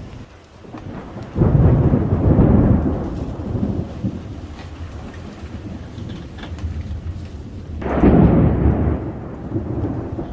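Thunder rumbling twice over steady rain: a long rumble starting suddenly about a second and a half in, and a second one near the end.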